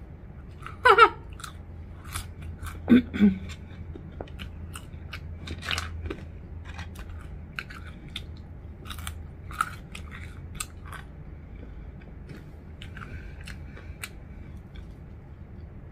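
Close-miked chewing and biting of a burger and curly fries, with many small wet mouth clicks and crunches. There are two brief vocal sounds, about one and three seconds in.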